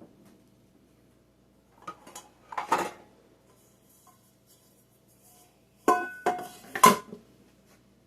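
Kitchen pots and dishes being handled: a rattle about two seconds in, then sharper metallic clanks with a brief ring near the end.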